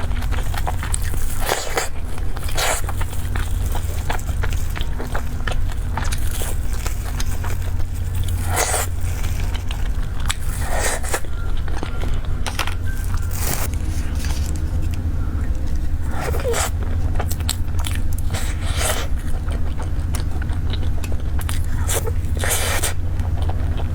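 Close-miked eating: scattered bites, crunches and scrapes, over a steady low hum.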